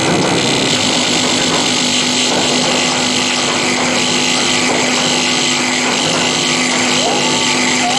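Improvised electronic noise: a dense, steady grinding drone under a held low tone, with a short gliding tone rising and bending near the end.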